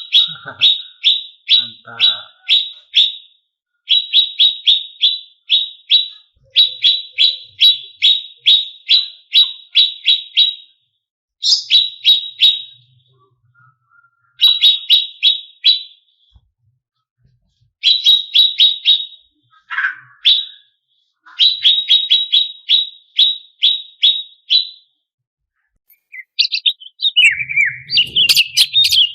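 Cucak cungkok (blue-winged leafbird) singing: runs of sharp, downward-slurred notes at about three to four a second, repeated in bouts with short pauses between them. Near the end the song breaks into a more varied, jumbled phrase.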